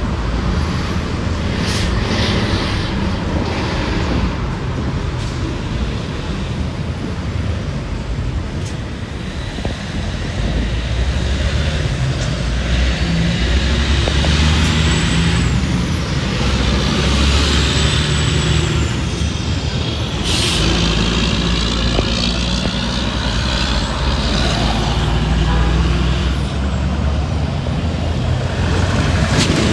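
Heavy trucks and other traffic passing on an expressway: steady engine rumble and tyre noise, swelling with a rising and falling whine as vehicles go by about halfway through.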